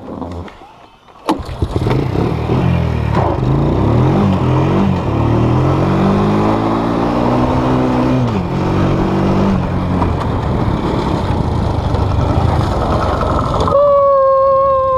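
A small off-road vehicle's engine starts about a second in, revs up and down several times, then runs steadily. Near the end a steady high tone sounds for about a second over the engine.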